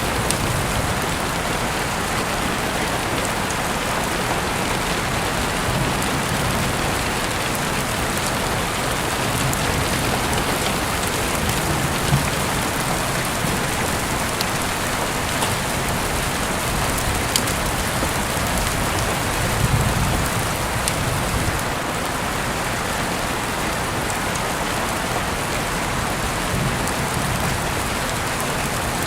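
Steady rain falling on a surface, with a few sharp drip-like ticks and occasional low swells of rumble.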